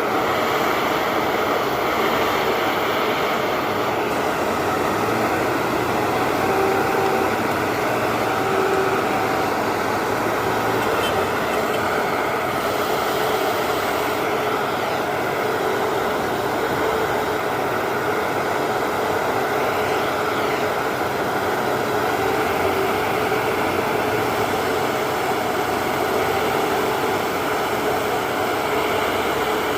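Heavy diesel engine running steadily under a constant wash of mechanical noise, with a faint whine coming and going.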